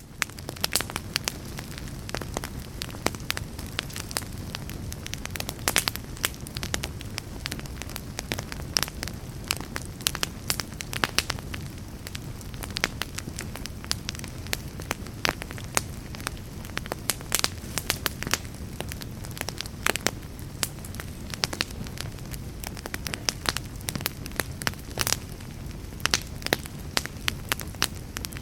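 Fire burning in a fireplace: a steady low rumble with frequent, irregular sharp crackles and pops throughout.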